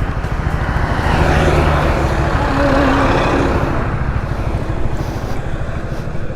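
Yamaha R15 V3 single-cylinder motorcycle riding at highway speed: steady engine and road noise, swelling louder for about three seconds in the first half.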